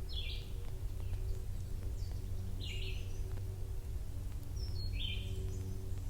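A songbird singing short, similar phrases about every two and a half seconds over a steady low rumble.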